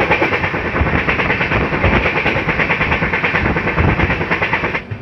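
Passenger train running at speed, heard from an open coach doorway: a loud, dense clatter of wheels over the rails under a steady rush of running noise, which drops away suddenly near the end.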